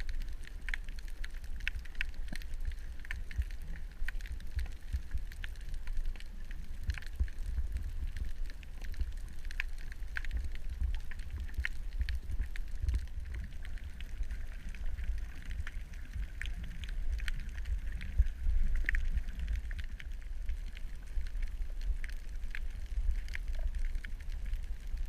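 Underwater ambience on a coral reef: a constant low rumble with many irregular crackling clicks scattered through it, the typical reef crackle.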